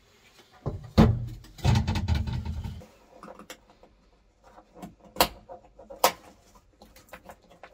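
Scattered clunks and knocks from work on a stripped car body. The loudest comes about a second in, a low rumbling scrape follows, and two single knocks come later.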